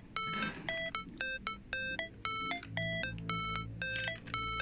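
A simple electronic tune of short beeping notes at changing pitches, about two to three notes a second.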